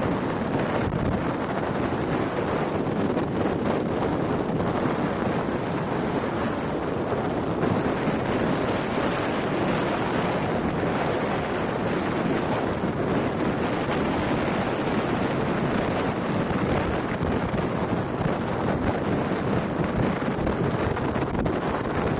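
Rain shower falling steadily: a dense, even rushing noise with no breaks.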